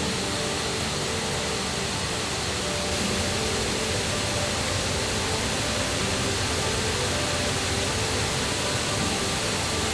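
Steady rushing of a river and waterfall running high after rain.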